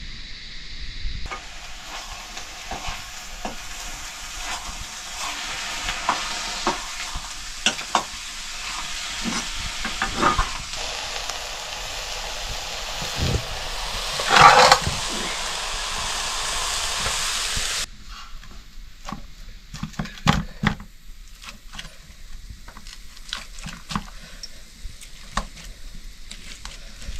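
Food sizzling in hot oil in a pan, with a spoon or spatula clicking and scraping against it and a loud crackle about midway. The sizzle cuts off suddenly, leaving scattered clicks and knocks of utensils.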